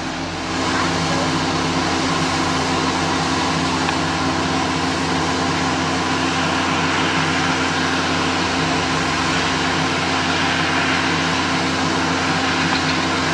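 A machine running steadily: a constant low hum with a rushing noise over it, getting a little louder about half a second in.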